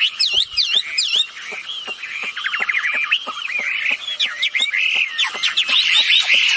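Wambi birds calling nonstop: a dense run of rapid chirps and swooping whistled notes, with a quick trill about halfway through.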